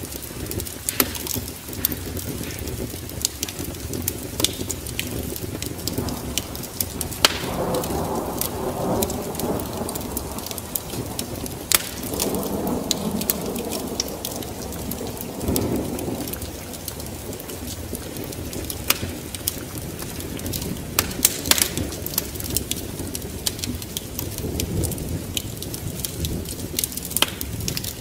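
Wood fire crackling with frequent sharp pops, layered over steady rain and low rolling rumbles of thunder that swell about a third of the way in and again around the middle.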